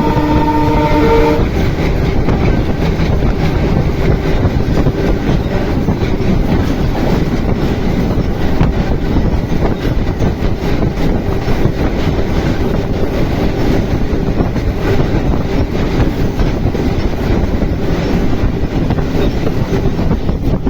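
Train horn sounding a steady chord that stops about a second in, then the rumble and clatter of the train running along the track.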